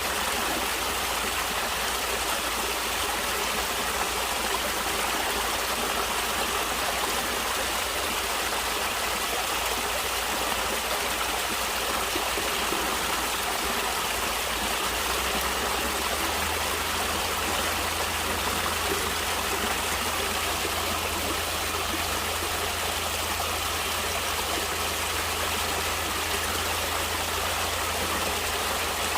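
A natural stream of running water flowing steadily, with an even, unbroken splash and babble.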